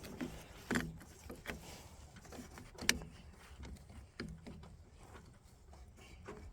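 Scattered clicks and knocks of jumper cable clamps being handled and fitted to battery terminals, one sharper click about three seconds in, over a faint low hum.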